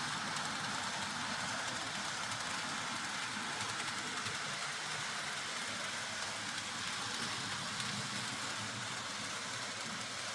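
N gauge model train running on the layout's track: a steady rolling rumble of wagon wheels on the rails, with the locomotive's motor.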